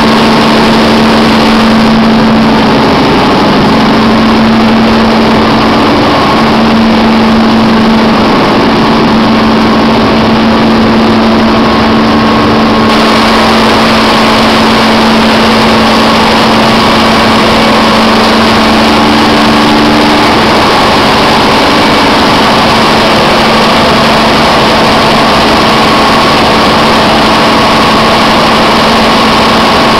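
Biogas-fuelled engine running steadily at a constant speed, a loud even drone with a steady hum.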